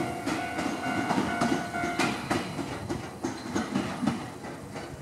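Ichibata Electric Railway 1000 series electric train rolling over rail joints, its wheels clacking repeatedly over a steady rumble that fades toward the end. A level-crossing warning bell rings in rapid strokes and stops about two seconds in.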